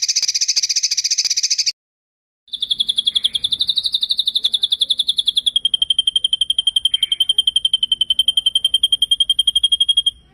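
Songbird masteran recording: a buzzy rapid rattle lasting about two seconds, then after a short pause a long, very fast rolling trill at a high, steady pitch that steps slightly lower about halfway through, cutting off near the end.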